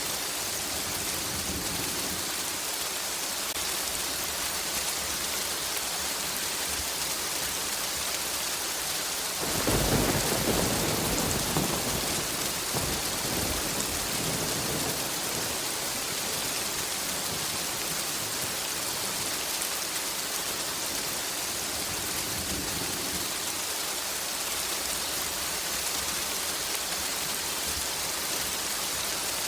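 Steady heavy rain hissing, with a roll of thunder that breaks in suddenly about a third of the way through and rumbles away over several seconds; another clap begins at the very end.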